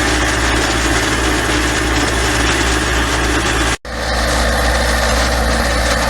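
Engine running steadily with a constant drone. It cuts out for an instant nearly four seconds in, then carries on.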